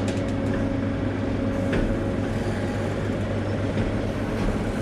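Electric commuter train running, with a steady motor hum over the rumble of the carriage.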